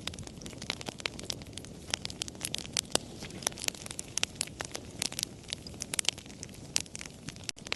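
Campfire crackling: irregular sharp pops and snaps, several a second, over a low steady rush of the flames. The sound breaks off for a split second near the end.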